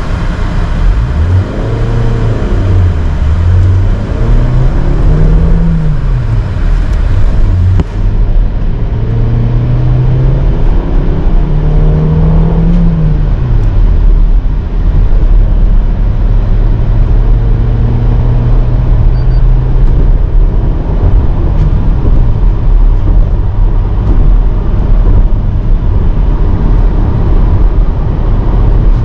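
Maruti Suzuki Baleno's 1.2-litre four-cylinder petrol engine accelerating hard, heard from inside the cabin. Its note climbs in pitch and drops back a few times through the first dozen seconds as it pulls up through the gears, then holds steady at highway speed over road and wind noise.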